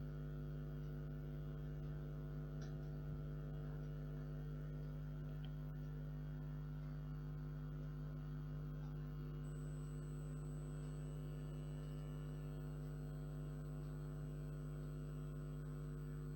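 Steady electrical mains hum with a stack of even overtones, with a faint thin high whine joining about ten seconds in.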